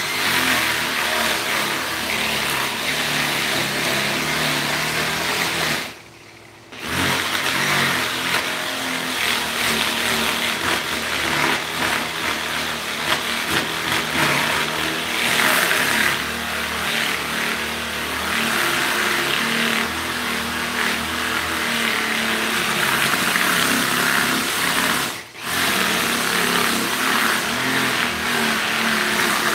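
An electric power tool runs continuously with a loud whirring motor, its pitch shifting as it works, and cuts out briefly twice.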